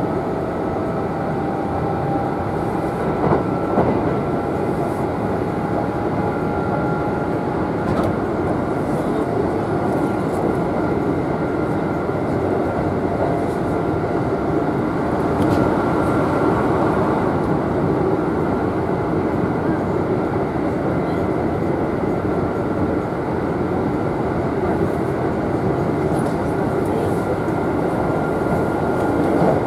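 Kintetsu electric train running at speed, heard from inside the carriage: a steady rumble of wheels on rails with a faint steady whine over it.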